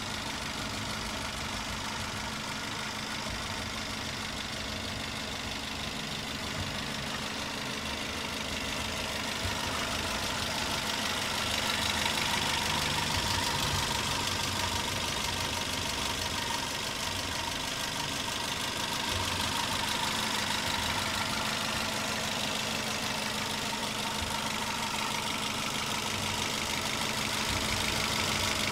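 Toyota Avanza 1.5 VVT-i four-cylinder petrol engine idling steadily, heard close up in the open engine bay, running smoothly.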